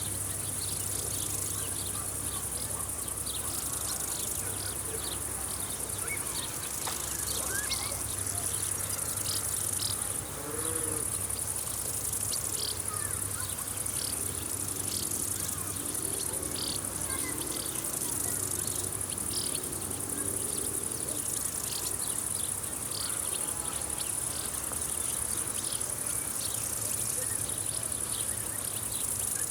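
Chorus of stridulating insects, crickets or grasshoppers, in a summer field: a continuous high-pitched buzz overlaid with short chirps repeating about once a second.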